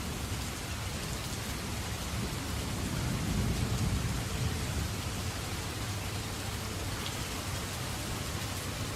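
Steady rain falling, with a low rumble of distant thunder swelling about three seconds in and then easing off.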